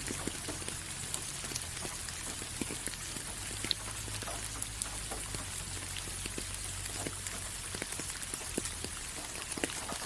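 Steady rain falling, with a continuous hiss and many individual drops tapping close by, a few sharper splats standing out.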